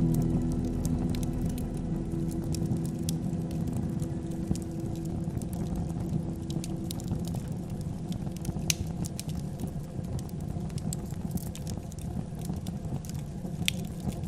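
Wood fire crackling, with scattered sharp pops over a low rumble. Soft sustained music notes fade out over the first several seconds.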